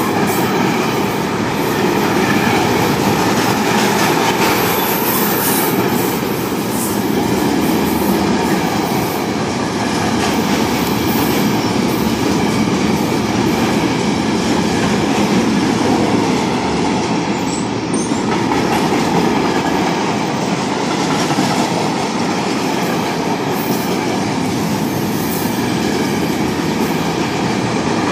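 A long freight train's wagons passing close by at speed: a loud, steady rumble and clatter of steel wheels over the rails, with no letting up.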